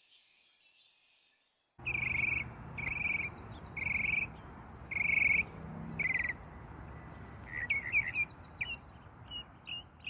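Birds calling over a steady rushing background that cuts in suddenly about two seconds in: a run of about five short buzzy calls roughly a second apart, then quicker, shorter chirps.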